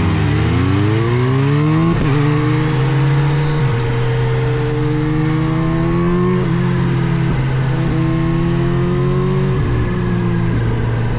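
Kawasaki Z H2's supercharged inline-four engine revving up hard for the first two seconds, then a break and a steadier, slowly climbing pitch, with short dips a few times as the throttle or gear changes.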